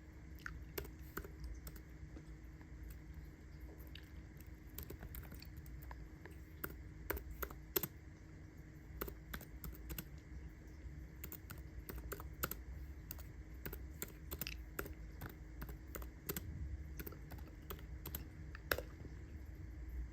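Microwave oven running with a steady low hum, with irregular light clicks and ticks scattered throughout.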